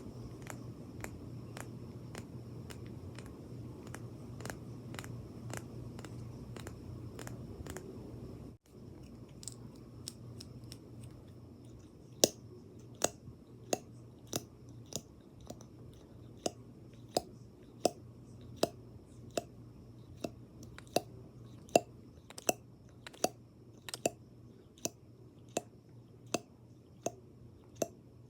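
ASMR tapping: a steady low hum with faint quick clicks, then, after a sudden cut, a run of sharp taps about one to two a second.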